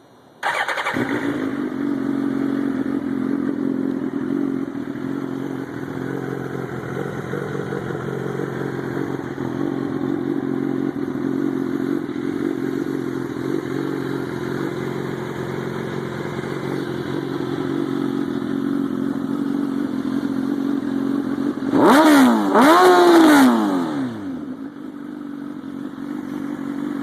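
2006 Suzuki GSX-R1000 (K6) inline-four with an aftermarket exhaust starting up about half a second in and settling into a steady idle. About 22 seconds in it is revved twice in quick succession, the loudest part, each rev rising and falling back to idle.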